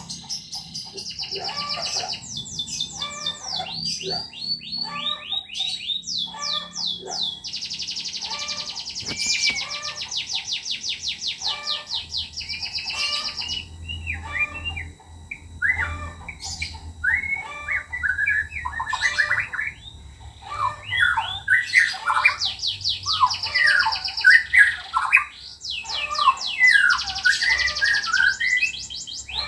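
White-rumped shama (murai batu) singing a long, varied song: fast rattling trills, then a run of short whistled notes and slurs, with the rapid trills coming back near the end.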